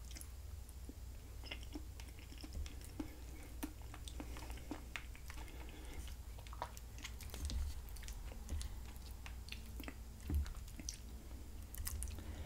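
Quiet, close-miked chewing of food with soft scattered mouth clicks, and occasional light taps of a wooden fork picking at food on a ceramic plate.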